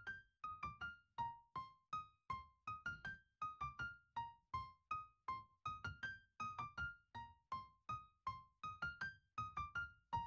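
Quiet background music: a light keyboard melody of short single notes, each struck and fading quickly, about three or four a second.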